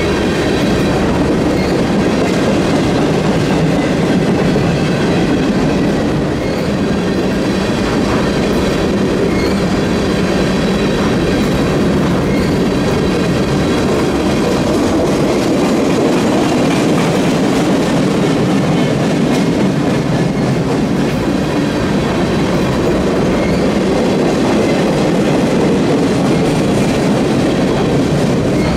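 Empty flat cars of a freight train passing at speed: a loud, steady noise of steel wheels rolling over the rails, with faint high ringing tones above it.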